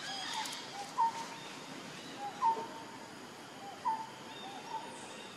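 A bird calling in the forest: a series of short, clear whistled notes about a second apart, the loudest about two and a half seconds in, over a steady background hiss.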